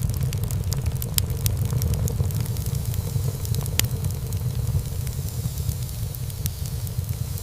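Wood fire burning in a fireplace: a steady low rumble of flames with many small crackles and pops from the burning wood, one sharper pop a little under four seconds in.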